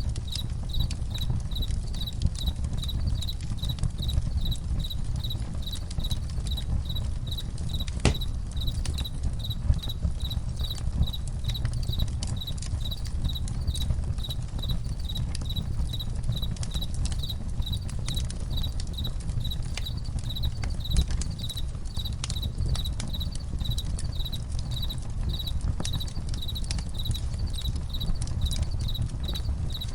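Campfire crackling with scattered sharp pops, one louder pop about eight seconds in, over a steady low rumble. Crickets chirp in an even, regular pulse throughout.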